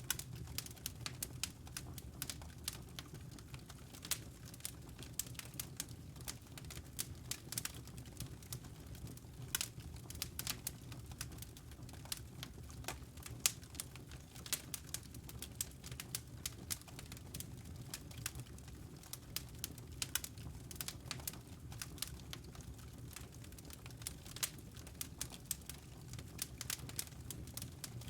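Wood fire in a fireplace crackling: many sharp irregular pops and snaps over a low steady rumble of the flames.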